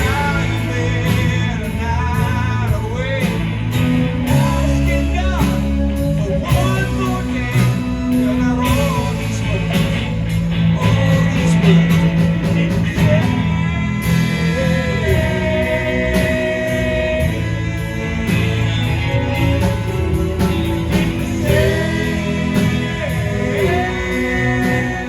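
Live band playing a song with guitar and a strong bass line; a bending melodic lead carries the tune, with no clear sung words.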